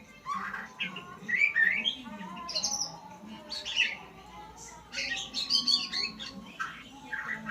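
A murai songbird singing a varied run of short chirps and whistled phrases in quick bursts, with a steady low hum underneath.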